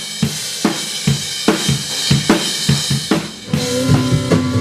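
Drum kit playing a rock beat: kick and snare strikes with cymbal and hi-hat wash. Near the end, sustained pitched instrument notes join in as the rest of the song comes in.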